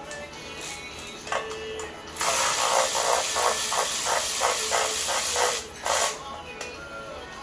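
A power tool runs for about three and a half seconds with a hissing sound and about four pulses a second, then gives one short burst. Music plays throughout.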